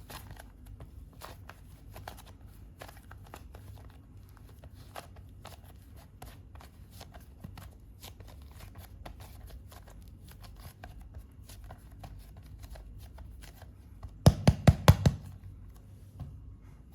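Hands working soft modelling clay, a steady stream of faint sticky clicks and crackles. Near the end, a quick run of five loud knocks within about a second.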